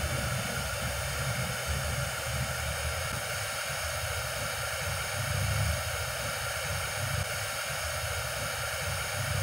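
Car stereo's FM tuner giving out a steady static hiss, sitting on 87.5 MHz with no station tuned in, with a low rumble underneath.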